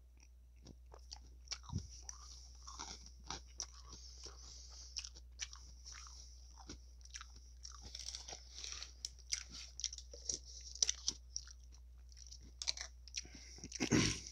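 Close-miked chewing of a salad with croutons: irregular crisp crunches and wet mouth clicks, with a louder burst near the end.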